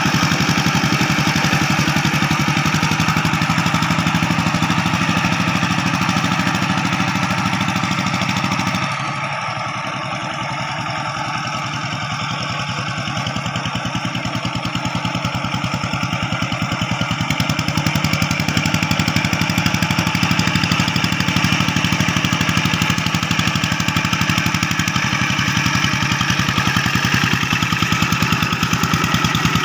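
Rice-field tractor engine running steadily while working the paddy, its level dropping about a third of the way in and gradually picking back up.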